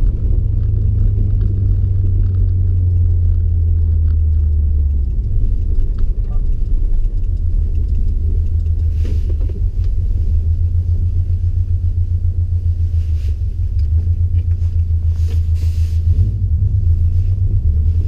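Inside the cabin of a 2020 Subaru WRX STI with a Stage 3 tune and turbo-back exhaust: its turbocharged 2.5-litre flat-four drones with a deep, steady rumble while driving.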